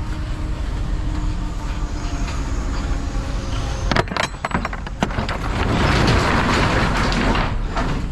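Vehicle running steadily with a low rumble. A few sharp knocks come about four to five seconds in, followed by a louder rush of noise lasting about two seconds.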